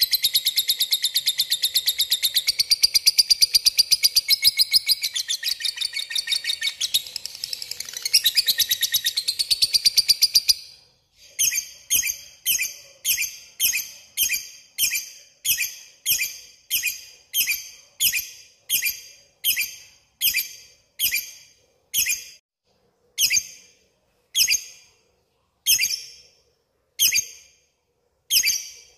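Lovebird ngekek: a long, rapid, high chattering trill for about ten seconds, which then breaks into separate sharp 'kek' notes, about two a second, spacing out toward the end.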